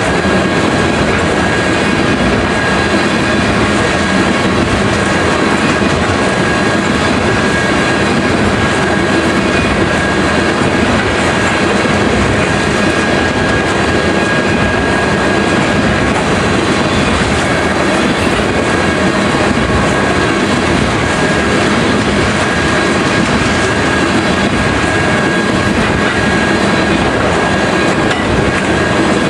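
Freight train of tank cars rolling past, a steady rumble of wheels on rail with a steady high whine over it.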